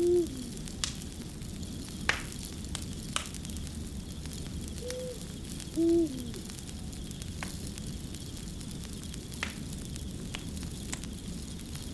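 Fire crackling with scattered sharp pops over a steady low rumble, while an owl hoots three times: near the start, about five seconds in, and about six seconds in.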